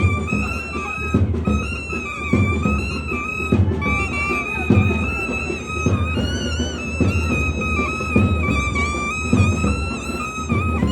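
South Indian temple procession music: a loud nadaswaram playing a bending, ornamented melody over irregular thavil drum strokes.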